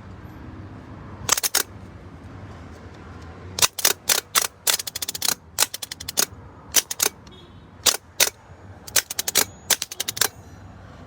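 Runs of rapid sharp clicks, repeating in several bursts, from an old truck's starter solenoid as the key is turned. The clicking is the sign of a failed starter.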